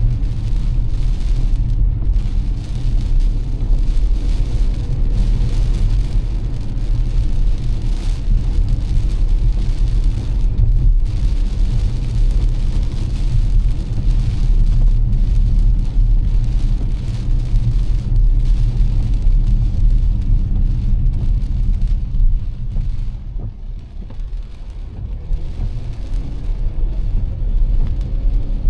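Car driving through heavy rain: a steady low road rumble with the hiss of rain and wet tyres. It eases briefly about three-quarters of the way through.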